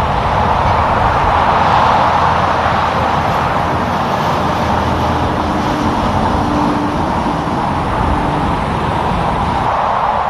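Tractor-trailer going by on a highway: a steady rush of tyre and engine noise, a little louder about two seconds in.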